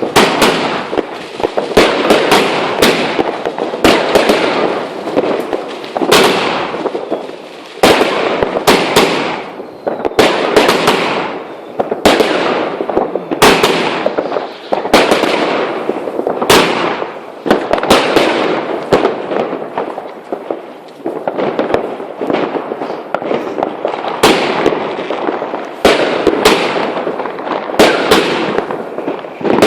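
Consumer fireworks going off without a break: sharp bangs every second or two, with dense crackling between them.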